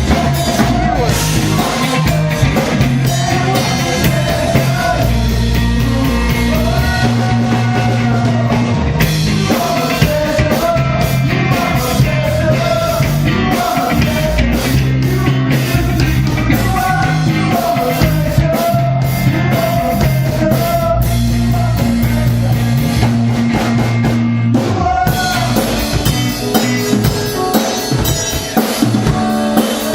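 Rock band playing live, with a singer over drum kit and bass. The singing stops near the end, leaving mostly drums.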